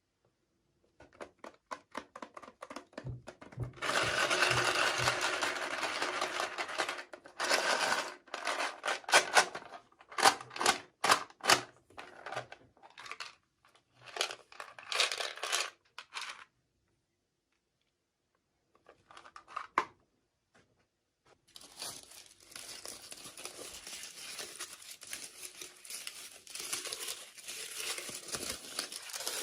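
Packaging being unwrapped by hand: stretches of tearing and crinkling, with a run of sharp clicks and taps between them and a pause of a few seconds past the middle.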